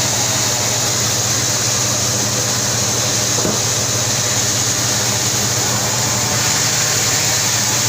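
Sawmill saw running steadily: a constant low machine hum under a loud, even high hiss, with no pause or change in load.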